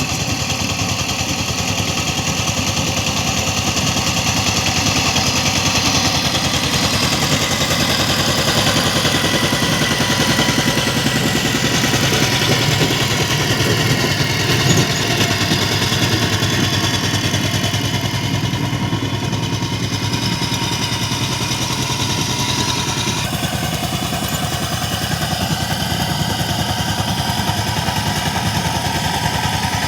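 Power tiller engine running steadily, with a rapid, even chugging.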